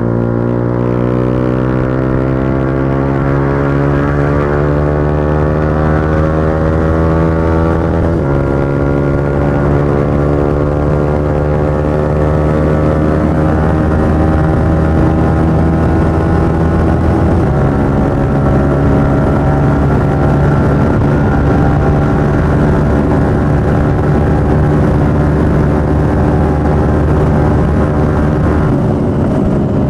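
Motorcycle engine running hard at speed, its pitch climbing slowly and steadily, with two sudden changes in pitch about 8 and 17 seconds in, and the revs dropping off near the end.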